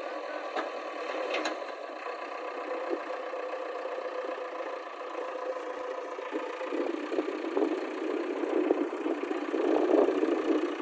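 A vehicle engine running steadily, growing louder and rougher about two-thirds of the way through.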